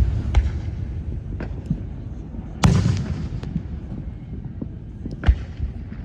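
Fireworks going off: one loud boom with a long rumbling tail about two and a half seconds in, and scattered sharp cracks and pops around it, with a strong crack near the end.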